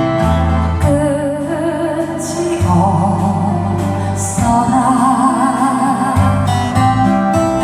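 A woman singing with vibrato, accompanied by an acoustic guitar.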